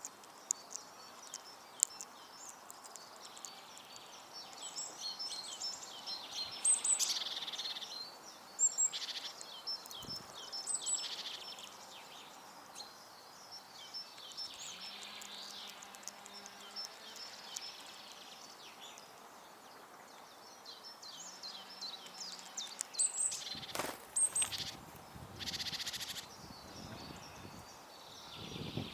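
Small garden songbirds chirping and calling in many short, high notes, with a louder burst of rustling noise near the end.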